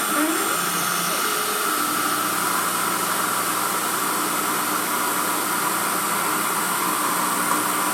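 Emco F1 CNC milling machine running steadily, its spindle turning a 2.8 mm drill at 2000 RPM through a cast aluminium engine pan. There is a short rising whine just after the start as an axis moves.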